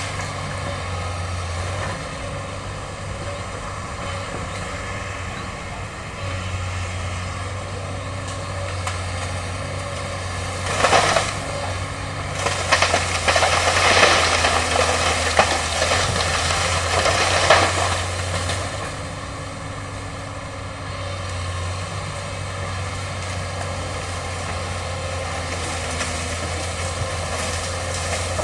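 Excavator's diesel engine running steadily with a low hum. A brief loud crunching burst about eleven seconds in, then several seconds of louder rough crunching, as the machine breaks and pulls out bamboo.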